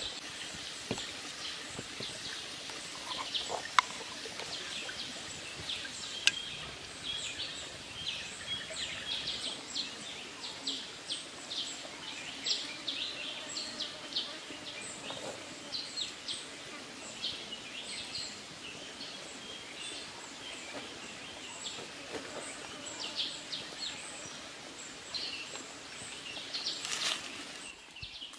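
Many short, high bird chirps repeating over a steady outdoor background hiss, with a couple of sharp knocks, the loudest about four seconds in.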